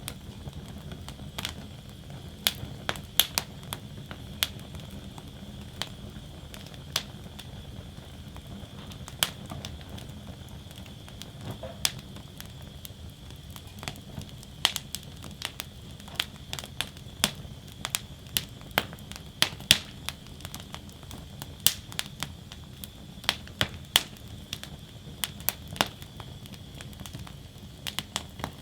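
Wood fire burning in a steel fire basket, crackling and popping at irregular intervals over a steady low rumble of flames.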